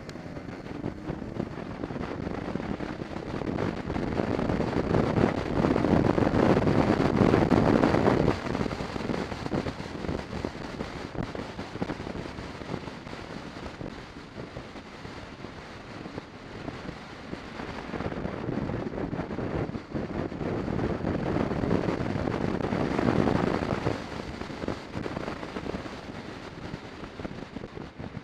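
A motorcycle being ridden: a rushing mix of engine and wind noise on the microphone. It swells twice, the first time cutting back sharply, as the bike picks up speed and eases off.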